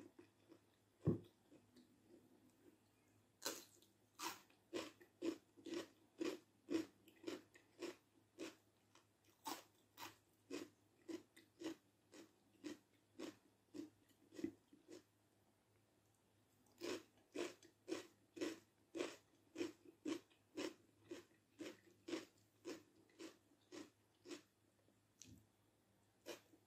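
Close-miked chewing of food in a steady rhythm, about two crisp chews a second, in two long bouts with a pause of about two seconds between them; the second bout follows a bite of raw red bell pepper.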